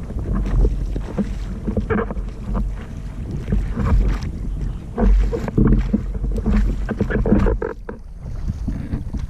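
Sailboat under way: wind buffeting the camera microphone in uneven gusts, with water rushing and splashing along the hull.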